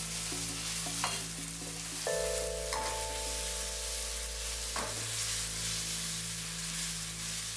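Onion puree and chopped onion frying with a steady sizzle in a hot non-stick pan, stirred with a wooden spoon that scrapes the pan a few times. A steady hum of several tones joins about two seconds in.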